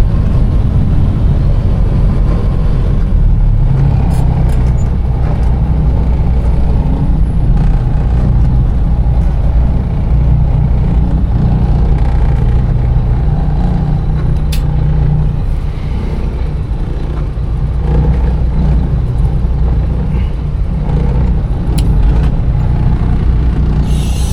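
Container truck's diesel engine running steadily with a deep, low hum, with a couple of brief sharp clicks.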